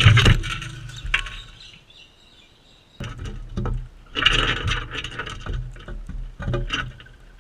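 Crimson rosellas feeding right at the camera: beaks and claws tapping, knocking and scratching, with a loud knock at the start and a busier flurry of taps later on.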